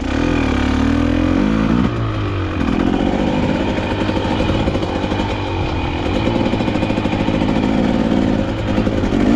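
KTM dirt bike engine running while riding off-road, its pitch falling and rising with throttle and gear changes.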